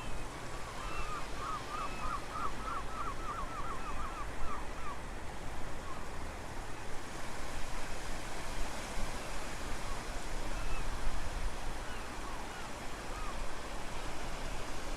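Steady wind and surf noise on a very windy shore, with a deep rumble of wind on the microphone. A bird gives a quick run of short, repeated call notes in the first few seconds, then a few single calls later.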